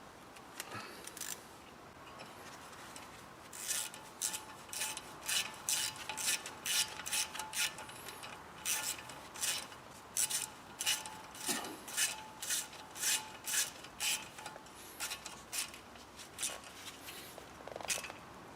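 A hand tool, likely a ratchet, driving in the small retaining screw that locates a car's front brake disc on the hub: a run of short rasping clicks, about two a second, starting a few seconds in and stopping near the end. The screw is only lightly tightened.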